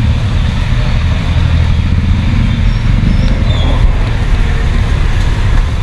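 Street traffic: a steady, loud low engine rumble from a motor vehicle running close by.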